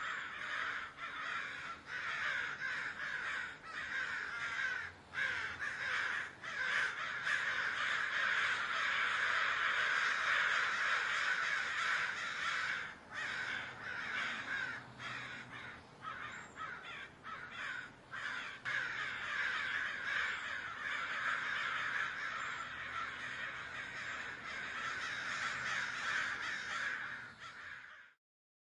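A large flock of crows cawing continuously, many calls overlapping into a dense chorus, which cuts off suddenly near the end.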